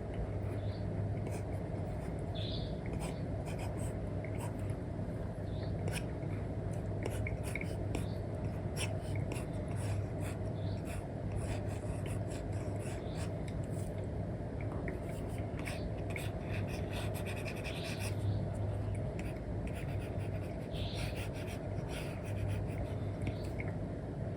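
Stylus nib scratching and tapping on a tablet's paper-like screen film: irregular short strokes and ticks while drawing, over a steady low hum.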